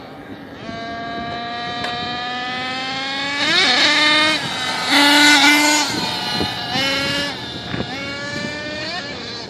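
XTM MMT Mammoth RC monster truck's engine revving. Its pitch climbs slowly over the first few seconds, then peaks in two loud high-rev bursts around the middle, followed by shorter throttle blips that rise and fall near the end.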